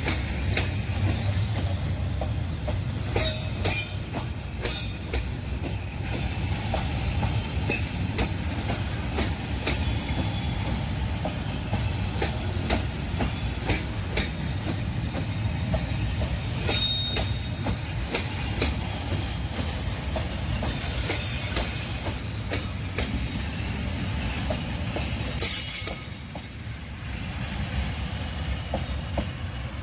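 Train cars rolling past with a steady low rumble, clicks of wheels over the rail joints and brief high-pitched wheel squeals; the noise drops noticeably about 26 seconds in.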